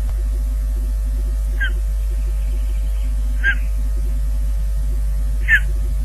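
Three short, downward-sliding bird calls about two seconds apart, over a steady electrical hum and a regular pulsing buzz from the nest webcam's microphone feed.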